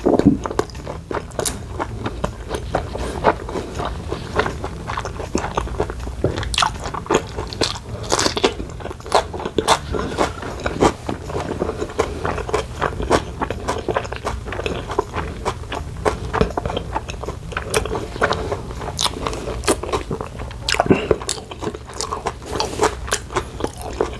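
Close-miked chewing and biting of grilled beef steak, with many small wet clicks and smacks of the mouth, over a steady low hum.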